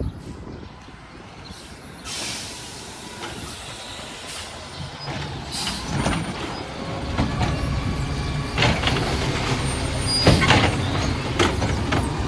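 Garbage truck running, its engine rumble building from about halfway through, with several short air-brake hisses.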